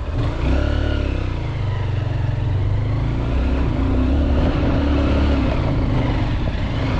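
Dirt bike engine running, its pitch rising and falling as the rider revs.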